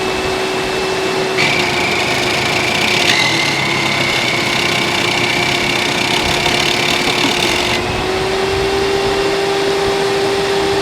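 Hoover Dimension Supreme vacuum cleaner running steadily with its motor whine, a higher whistle joining in about a second and a half in and dropping out near eight seconds.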